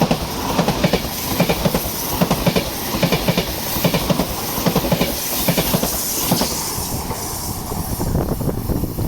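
Frecciarossa ETR 700 high-speed electric train passing close by, its wheels clattering in a quick, uneven run of knocks over the rail joints. The clatter thins out near the end.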